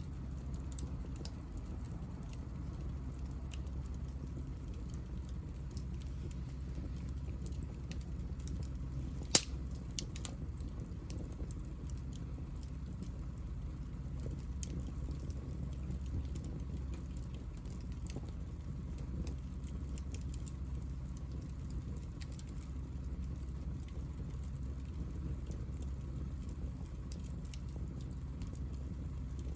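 Hinoki (Japanese cypress) offcuts burning in a small fire, crackling irregularly with scattered small pops over a low steady rumble. There is one sharp, loud pop about nine seconds in.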